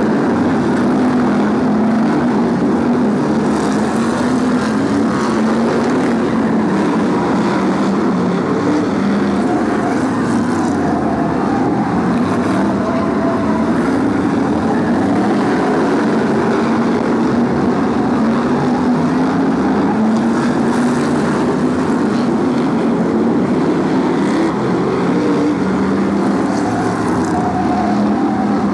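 BriSCA F1 stock cars' V8 engines racing on the oval: a loud, continuous mass of engine noise from several cars, the pitch rising and falling as they accelerate and lift off.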